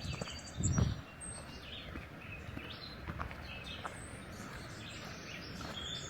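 Small birds chirping and singing on and off in a forest. There are a couple of heavy low thumps in the first second.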